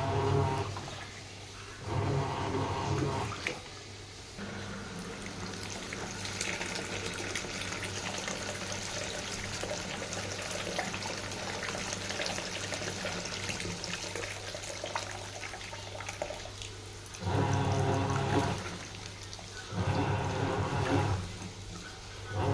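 Sharp washing machine running: short, humming motor pulses that turn the drum, about one and a half seconds each, then a long stretch of steady rushing water before the pulses start again about two-thirds of the way in.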